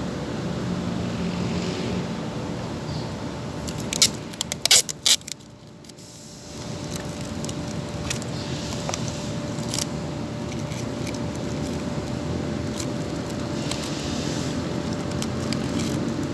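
Steady background rumble with hand-work noises over it: a quick run of sharp clicks about four to five seconds in, then scattered lighter clicks and rustles.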